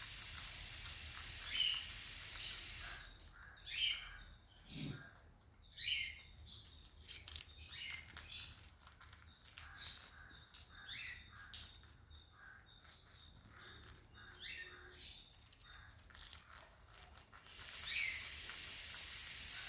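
Sun conures giving short, scattered chirps over many small clicks. A steady hiss fills the first three seconds and comes back near the end.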